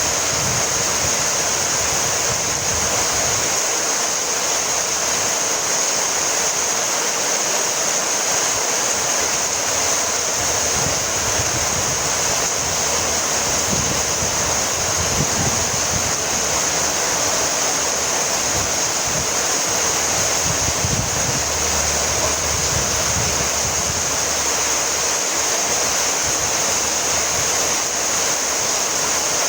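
Heavy rain falling steadily: an even, unbroken hiss, with uneven low rumbles coming and going underneath.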